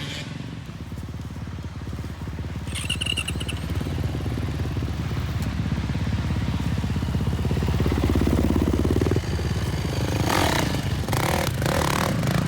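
Dirt bike engine running, growing louder over several seconds as the bike comes closer or opens up, then dropping off abruptly about nine seconds in.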